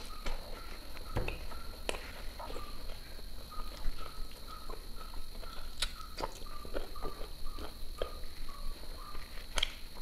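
Close-miked eating sounds: chewing and mouth clicks, irregular and many, as chicken and rice are eaten by hand. A faint short chirp repeats steadily underneath.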